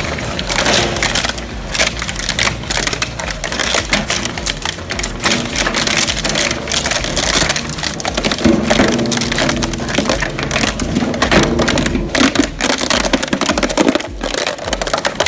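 Heavy industrial shredder crunching and cracking material in a dense, continuous stream of breaking sounds, with the machine's drone swelling at times.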